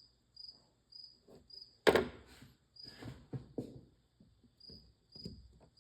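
Small metal clicks, taps and knocks of a ratchet head's pawl and spring being worked back into place by hand, with one sharp knock about two seconds in. A cricket chirps steadily behind, about two chirps a second.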